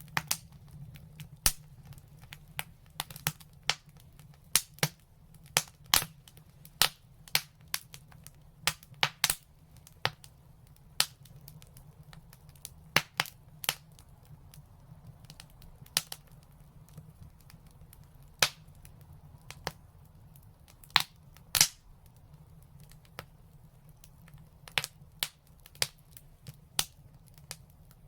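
Wood fire crackling in a fireplace: irregular sharp pops and snaps, bunched in quick clusters and sparser for a few seconds in the middle, over a faint low steady rumble.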